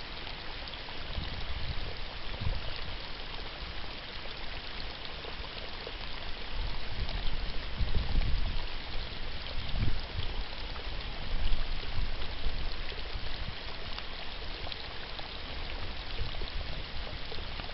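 Steady heavy rain hiss, with irregular low rumbles rising and falling several times.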